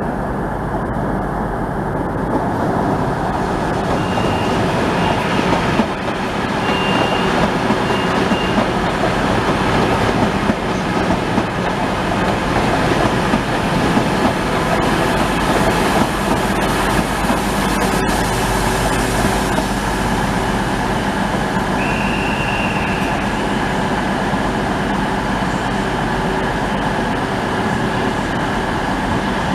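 A train running through the station, a steady loud rumble of wheels and traction, with a few short high-pitched squeals from the wheels.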